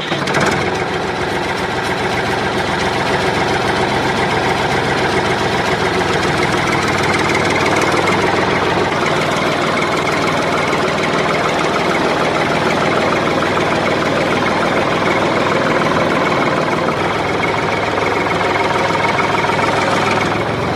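Small motor of a model borewell drilling machine running steadily with a dense, rattling buzz.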